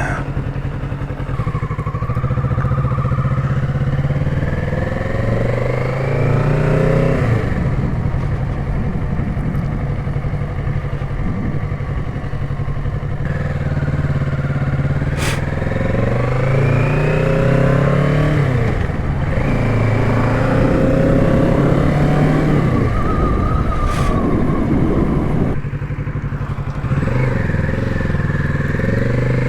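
Kawasaki Z650's parallel-twin engine accelerating through the gears while riding: the engine note rises under throttle and drops at each upshift, several times over.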